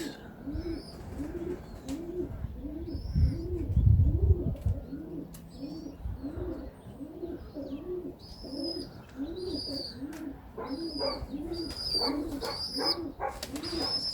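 Domestic pigeons cooing steadily, about two coos a second, with a small bird chirping high and more often in the second half. A low rumble, the loudest sound, comes about three to five seconds in.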